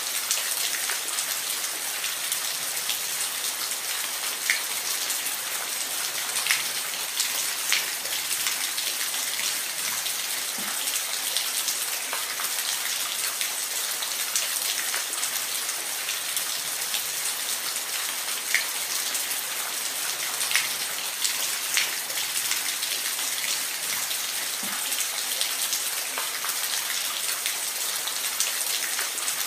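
Steady rain falling: an even hiss with individual drops ticking here and there.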